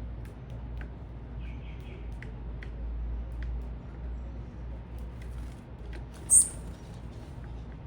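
Small birds at a feeder: scattered faint short ticks and calls, then one sharp, very high chirp about six seconds in. A steady low rumble runs underneath.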